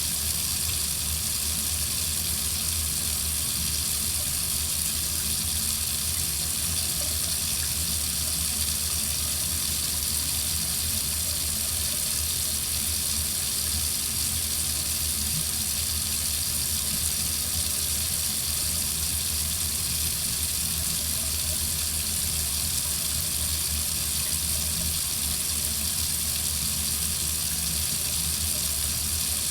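Water running steadily from a tap, an even unbroken hiss with no change in flow.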